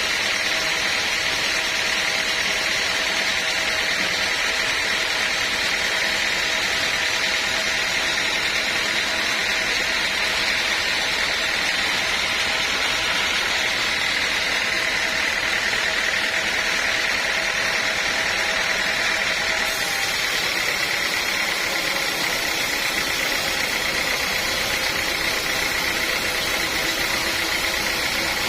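Sawmill machinery running steadily: a constant, even mechanical noise with a high hum, no starts or stops, and a slight change in the hiss about twenty seconds in.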